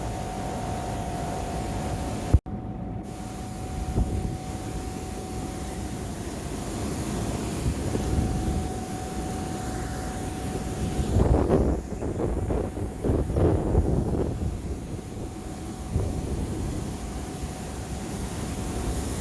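Floodwater rushing over a river weir: a steady roar of fast water. It cuts out briefly a couple of seconds in, and grows louder and more uneven for a few seconds past the middle.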